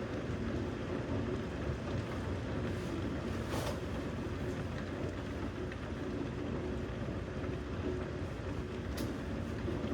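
Steady thunderstorm noise: rain and wind with a low continuous rumble, broken by two brief sharp ticks, one about three and a half seconds in and one near the end.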